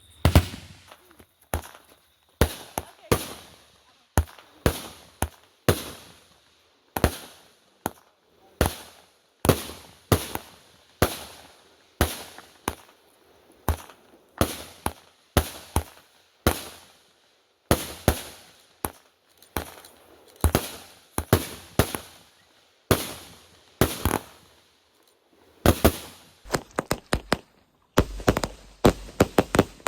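A fireworks finale firing shot after shot: sharp bangs about one to two a second, each with a short fading tail. In the last few seconds they come faster, as a dense string of rapid cracks.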